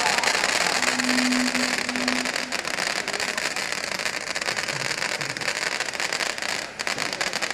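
A string of firecrackers going off in a rapid, continuous crackle, dipping briefly near the end.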